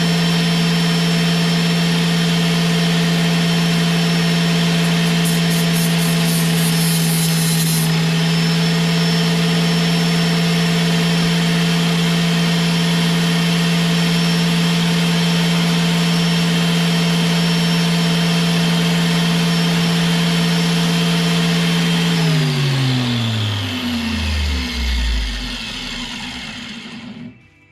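Grinder with a flap disc running steadily at full speed, used to grind the end cap off a fuel injector, with a brief high hiss about five seconds in lasting a few seconds. About twenty-two seconds in it is switched off and its pitch falls steadily as it spins down to a stop.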